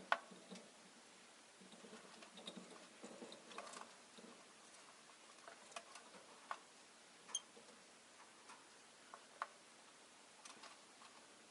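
Faint, scattered clicks and taps with a stretch of soft rustling near the start: a rosy-faced lovebird pecking and moving about its cage. A brief high ting sounds about seven seconds in.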